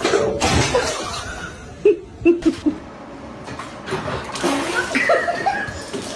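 A person laughing in short bursts, loudest about two seconds in and again near the end.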